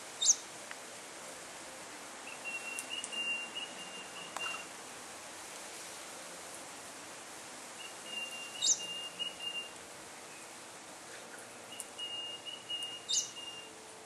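A bird calling three times, about every five seconds. Each call has a short, sharp high note and a rattling trill held at one pitch. The calls sit over a faint steady hiss.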